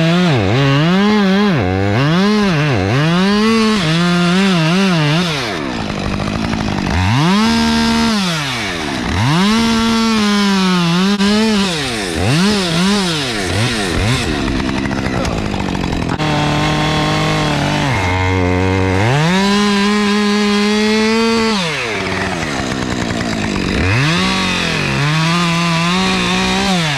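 Two-stroke chainsaw revved over and over while cutting wood, the engine pitch climbing to full throttle, sagging under load in the cut and dropping back between cuts, with a couple of longer steady runs in the middle.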